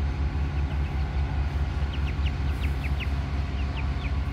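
Short high chirps from a bird, a quick series in the second half, falling in pitch each time, over a steady low rumble.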